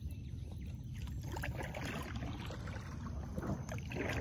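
Water splashing and dripping around a kayak in irregular small bursts, over a steady low rumble.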